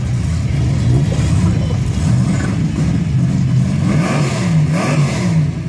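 Drag-race car engines rumbling at idle, with the revs rising and falling a few times about four seconds in.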